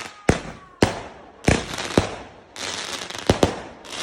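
Fireworks going off: about six sharp bangs at uneven intervals, two of them close together near the end, with crackling and hissing between the bangs.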